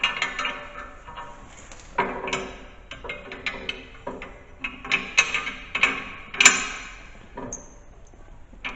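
Irregular metallic clinks and knocks, some with a short ring, as bolts, washers and a wrench meet the steel plow mount during installation.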